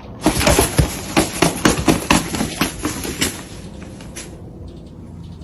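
A rapid, irregular run of knocks and clatter for about three seconds, then dying down to a quieter steady noise.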